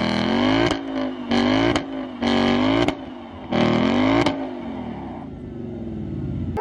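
BMW 435i's turbocharged straight-six, running catless downpipes and a JB4 tune, pulling in several short bursts of throttle whose pitch rises, each cut off sharply with a quick release of the blow-off valve. About four seconds in, it settles into a long falling note as it slows.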